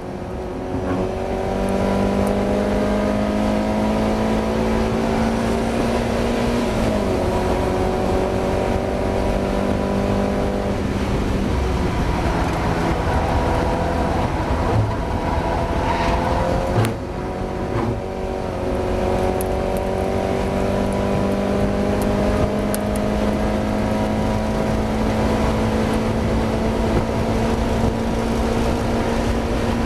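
Mazda MX-5's four-cylinder engine pulling under throttle, its pitch climbing steadily through each gear and dropping sharply a few times at gear changes or lifts. It is the race car the driver describes as struggling with a misfire.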